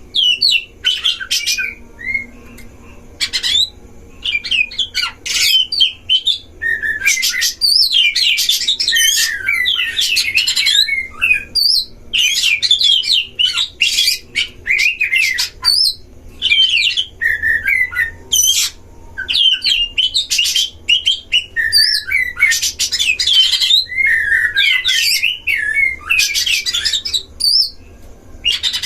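Oriental magpie-robins singing a fast, varied, agitated duel song, dense runs of quick chattering and whistled notes in bursts of a few seconds with short breaks between them.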